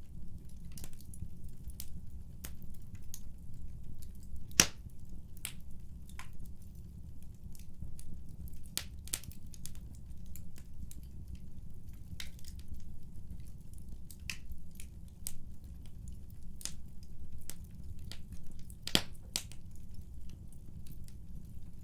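Wood fire crackling in a fireplace: a low steady rumble of burning, with irregular pops and snaps throughout, the two sharpest cracks about four and a half seconds in and near the end.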